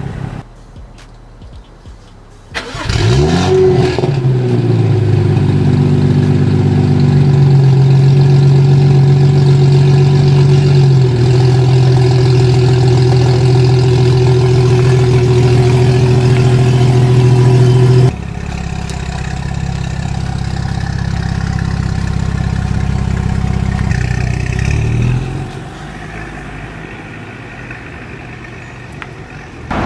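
BMW 335i's N55 turbocharged inline-six, fitted with a catless downpipe, starting up about three seconds in: it flares, then idles, its pitch stepping down twice as it settles. About halfway through the sound changes abruptly to a lower, steadier engine note, which grows quieter near the end.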